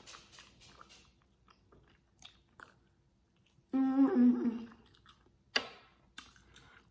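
Close-up eating sounds: soft chewing and small wet mouth clicks while eating a sauced chicken wing. A short closed-mouth hum comes about four seconds in, and a couple of sharp smacks follow near the end.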